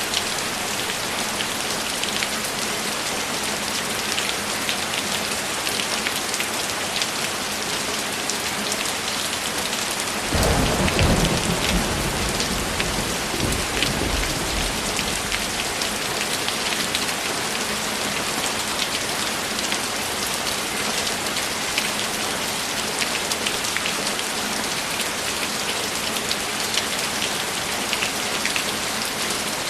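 Steady heavy rain falling, with a low roll of thunder about a third of the way in that swells and fades over a few seconds.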